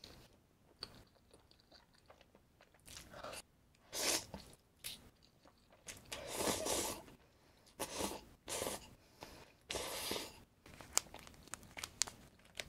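Close-miked eating: a person bites and chews crunchy food in a string of irregular crunches, with a few sharp clicks near the end.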